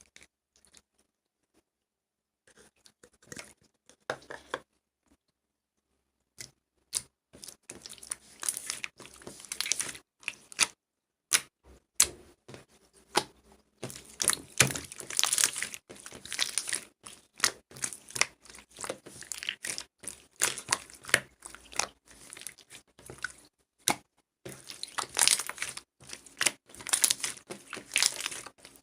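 Irregular close-up crackling and clicking of something being handled, starting after a few seconds of near silence and thickening into a dense run of crackles.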